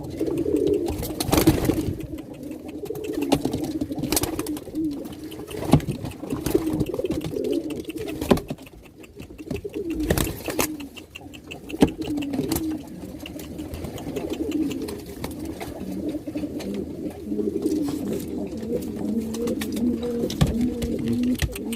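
Domestic pigeon cock cooing over and over in low, rolling coos while driving the hen toward the nest (giring), the courtship stage before mating and laying. A few sharp knocks break in along the way.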